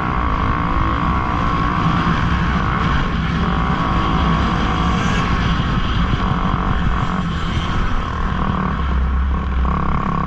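Motocross dirt bike engines running in a loud, steady drone.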